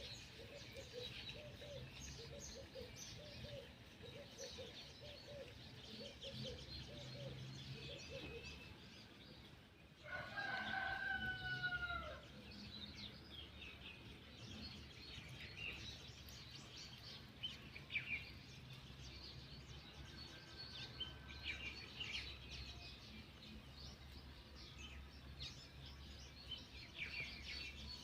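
A rooster crows once, loudly, about ten seconds in, a two-second call that falls in pitch at the end. Small birds chirp throughout, and a run of quick low notes sounds through the first few seconds.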